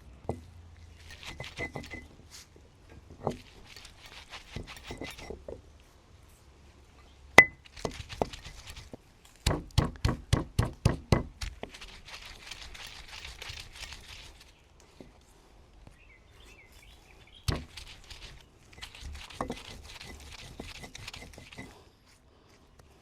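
Fresh coriander being handled and chopped: stretches of leafy rustling broken by scattered knocks. In the middle comes a run of about ten quick knife chops on a board within two seconds.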